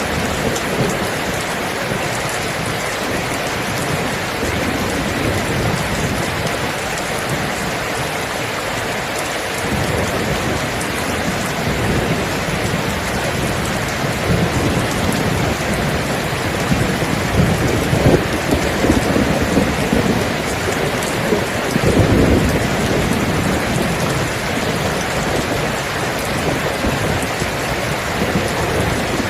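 Steady rain falling, with rolling thunder: deep rumbles build about a third of the way in and swell loudest a little past the middle.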